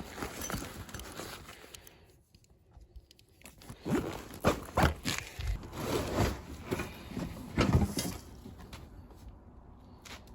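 Irregular rustling, scraping and knocks of packaging and parts being handled during unpacking, with a quiet pause about two seconds in and a busier run of knocks from about four to eight seconds in.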